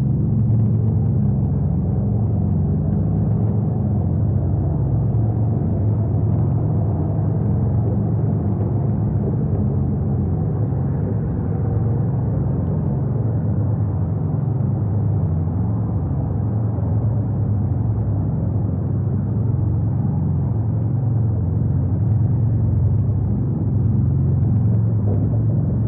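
Wind buffeting the eagle nest camera's outdoor microphone: a steady, loud low rumble.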